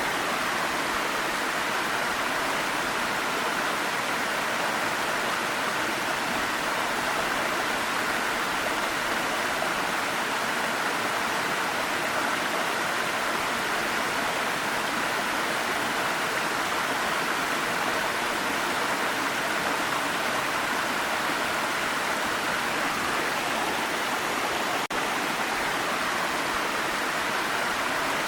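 Waterfall: steady, even rush of falling water with no change in level.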